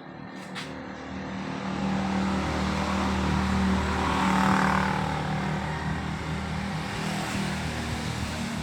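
A motor running with a steady low hum and a noisy whir over it, building up about a second in and staying steady after that.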